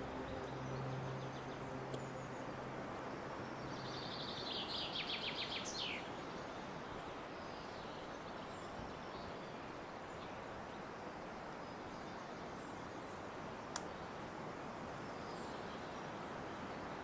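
A woodland bird sings once, a rapid run of repeated high notes ending in a quick falling note, over a steady outdoor hiss.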